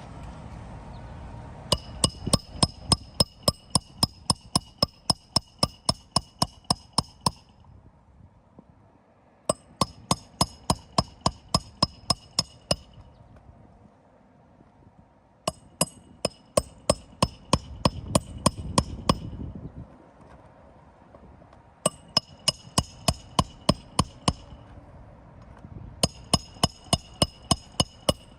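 Hammer striking a metal roof snake (shingle ripper) to work the roofing nails loose, in five quick runs of steady blows, about three to four a second, each with a bright metallic ring.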